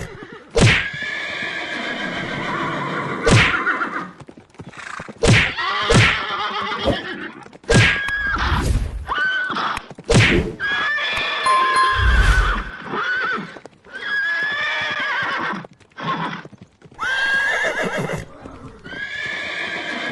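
Horses neighing: a long series of whinnies, one after another, with a couple of low thuds partway through.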